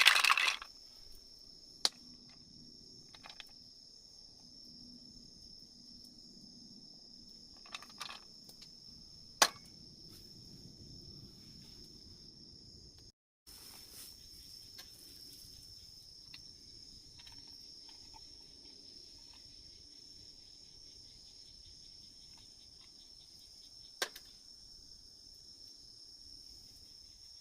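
Autumn crickets chirring steadily in a continuous high-pitched drone. A few sharp clicks stand out, the loudest about nine seconds in.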